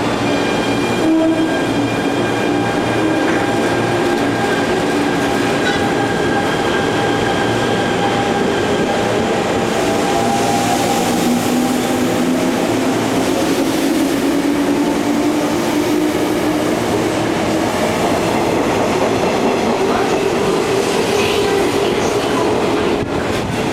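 Electric commuter train running through the station at close range: a steady rumble of wheels and motors, with humming tones that slowly slide in pitch.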